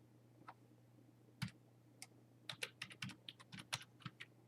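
Faint computer keyboard typing: a few single keystrokes, then a quick run of about a dozen keys in the second half, over a faint steady low hum.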